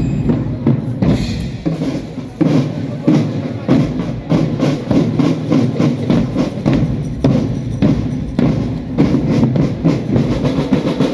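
A school marching drum band playing, its drums beating a steady rhythm of hits with bass drum under the music.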